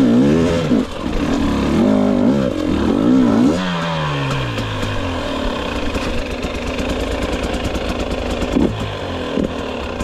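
Two-stroke engine of a 2022 GasGas EX 250 enduro motorcycle revving up and down with the throttle, then dropping back about four seconds in to a steady idle.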